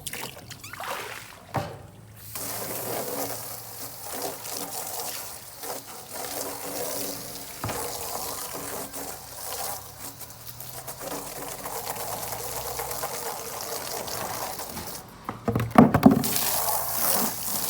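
Water running and splashing into an animal water bucket as it is rinsed or filled, with a few louder bumps near the end.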